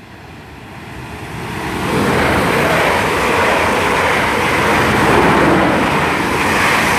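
Two coupled Class 444 Siemens Desiro electric multiple units passing through the station at speed without stopping. The rush of wheels on rail builds over about two seconds, then holds loud and steady.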